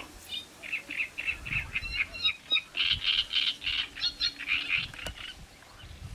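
A bird calling in a fast run of repeated high notes for about five seconds, ending just before a single sharp click.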